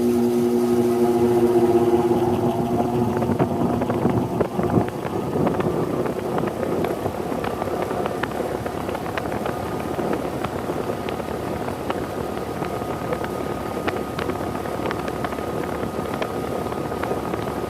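Carrier 25HBC560A003 heat pump outdoor unit starting up in cooling mode, its pitch rising over the first few seconds as it comes up to speed. It then settles into a steady running hum and whoosh, with scattered light ticks.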